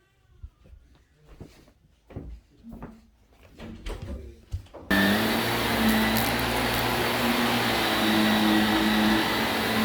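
A few light knocks and clicks, then about halfway through a vacuum cleaner switches on abruptly and runs steadily with a loud motor hum and whine.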